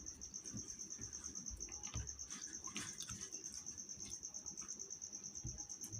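A cricket chirping in a fast, steady pulse, with a few faint clicks and low thuds under it.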